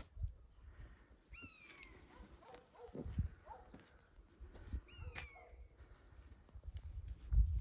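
Birds calling: short high chirps throughout and two louder downward-sliding calls, about a second and a half in and again about five seconds in, over an uneven low rumble.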